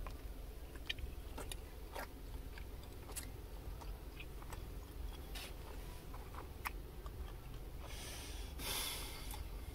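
Faint eating sounds of a person tasting a mochi cake: soft chewing and small scattered mouth clicks over a low steady hum, with a brief soft hiss-like rustle near the end.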